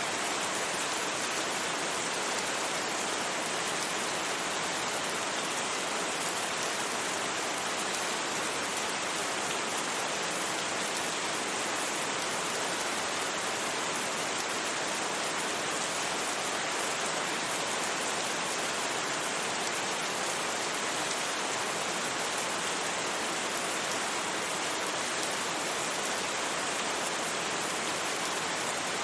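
Steady rain, an even hiss that never changes, with no single drops or thunder standing out.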